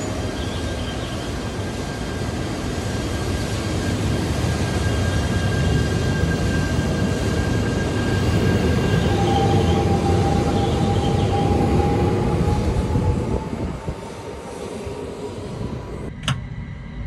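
E3 series Yamagata Shinkansen 'Tsubasa' train running past, the rumble of its wheels on the rails building for about twelve seconds and then easing, with a faint thin whine over it. A sharp click near the end, after which the sound drops.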